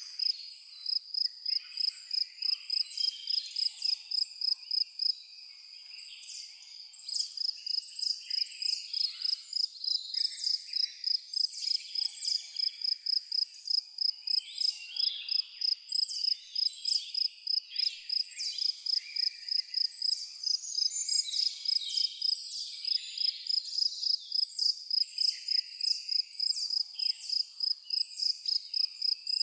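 An insect, like a cricket, chirping in a steady high pulse about two to three times a second, with a chorus of short, varied bird calls over it. The pulsing weakens briefly about five seconds in, then carries on.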